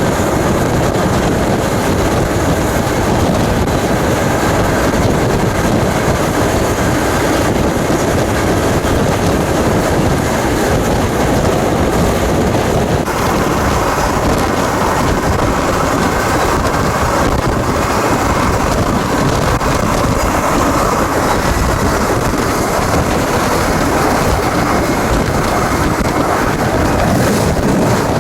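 Steady, loud running noise of a moving freight train, heard from aboard a car: rumble and rattle of the train underway, with wind noise on the microphone.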